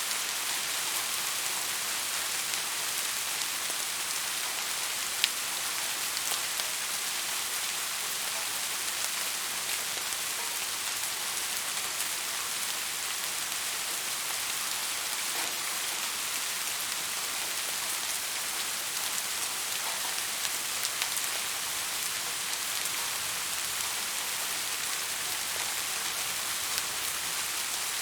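Steady rain falling, an even hiss with scattered sharper drop ticks, one louder tick about five seconds in.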